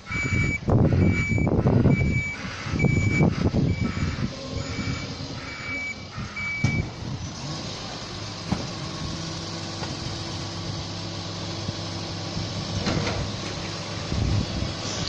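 Bin lorry's reversing alarm beeping about twice a second over its diesel engine, the beeps stopping about seven seconds in; the engine then runs on steadily.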